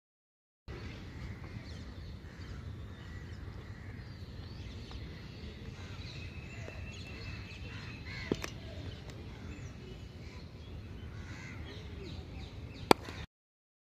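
Birds calling over low outdoor rumble, with a sharp knock about eight seconds in and a louder sharp crack near the end.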